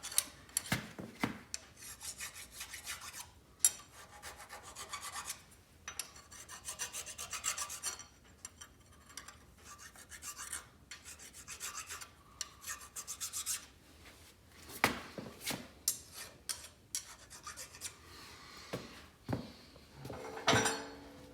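Hand file rasping on metal in short runs of strokes, with a few sharp metallic clinks in between. The file is dressing the edges of tapped bolt holes so that no raised first thread is left.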